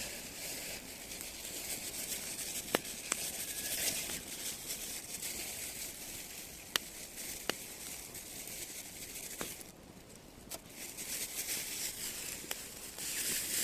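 Firewood burning in a small fire pit, a steady hiss and crackle with a handful of sharp single pops.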